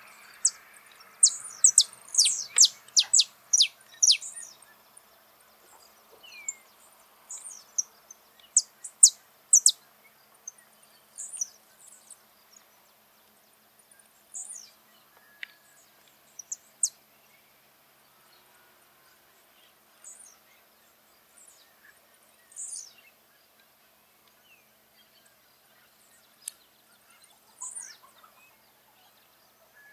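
Saffron finch singing: a fast run of sharp, high chirps in the first few seconds, then shorter phrases and single high notes spaced out over the rest of the time.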